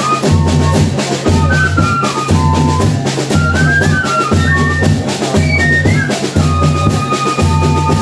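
Banda de pífano playing a Christmas tune: cane fifes carry the melody in two parts over a steady beat of bass drum, snare and cymbals.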